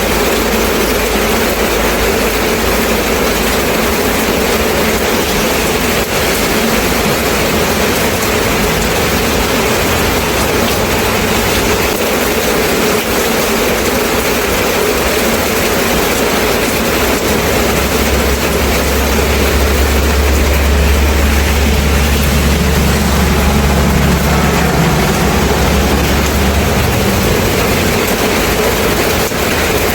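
Steady rain falling, an even hiss. From about eighteen seconds in to about twenty-seven seconds a deep low rumble runs underneath it, then stops.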